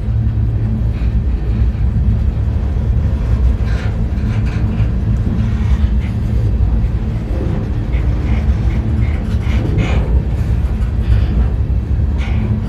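Moving freight train heard from on board a car: a steady low rumble of wheels on the rails, with a few sharper knocks.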